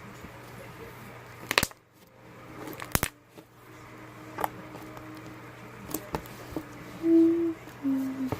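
Slime being squeezed and stretched by hand, with several sharp pops of trapped air scattered through and two short low-pitched squelches near the end. Under it runs a steady low hum from an aquarium.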